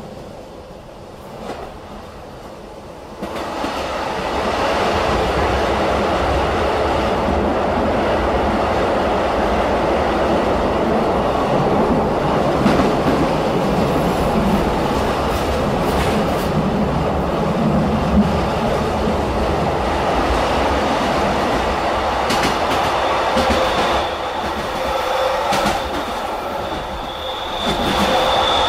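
Running noise heard inside a BLS passenger coach: a steady rumble and clatter of wheels on the rails, louder from about three seconds in, with a thin high wheel squeal near the end.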